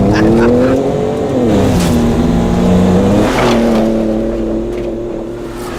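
Ford Raptor's 3.5-litre twin-turbo EcoBoost V6 revving hard: the pitch climbs and holds, falls away about a second and a half in, then runs more steadily with a change in pitch about three seconds in, with brief swishes over it.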